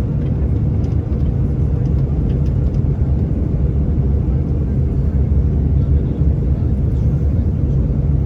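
Steady low rumble of airliner cabin noise, engines and rushing air heard from inside the passenger cabin.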